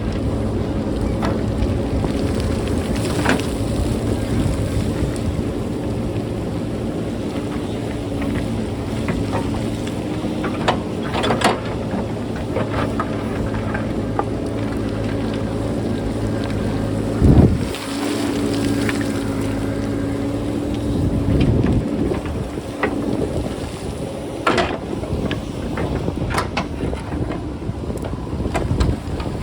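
JCB backhoe loader's engine running steadily under load as it cuts a rocky hillside, with rocks clattering and knocking now and then and wind buffeting the microphone. A heavy thump about halfway through.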